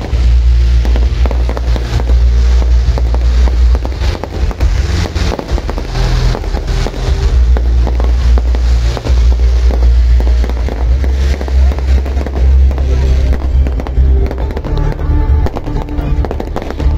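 Fireworks going off in rapid succession: many quick bangs and crackles, thinning out near the end. Loud music with a heavy, steady bass plays underneath.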